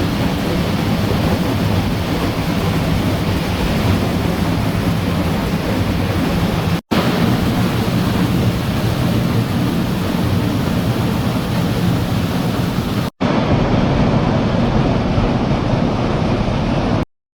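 Steady rushing roar of a waterfall, heaviest in the low end, broken by two brief dropouts and cutting off abruptly near the end.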